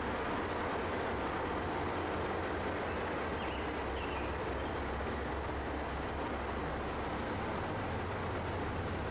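A train running with a steady low rumble.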